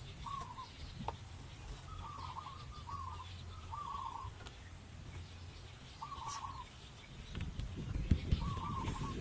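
A bird calling repeatedly, short wavering calls each under half a second, some in quick runs and some spaced seconds apart, over a steady low rumble. Near the end, rougher low noise with a few knocks joins in.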